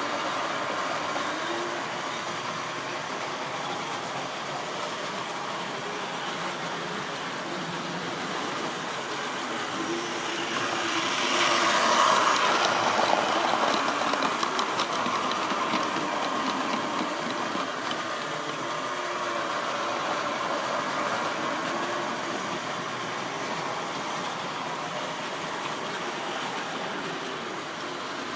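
A model railway train running on its track: a steady motor hum and wheel rumble that swells as it passes close, loudest about twelve seconds in, with light clicking over the rail joints, then eases off.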